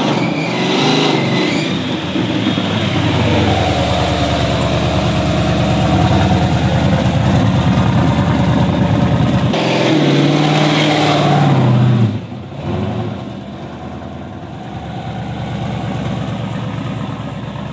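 Dodge Charger replica's supercharged V8 driving off and accelerating past, its exhaust note rising in pitch as it revs. It is loudest about ten to twelve seconds in, then drops back as the car pulls away.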